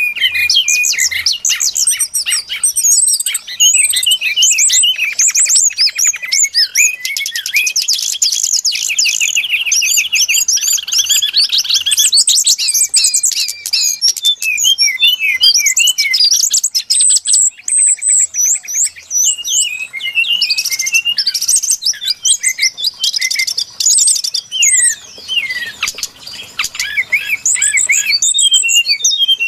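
Brown-chested jungle flycatcher song played as a bird-lure call: a loud, almost unbroken stream of high, quick whistled phrases and fast trills, with a couple of short breaks.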